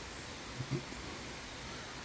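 Quiet outdoor ambience: a steady, even hiss, with one brief faint low sound a little under a second in.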